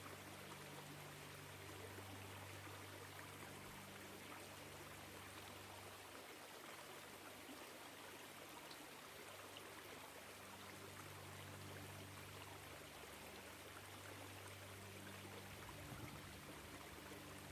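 Small woodland stream flowing, a faint, even rush of water. Underneath, a low hum fades in and out.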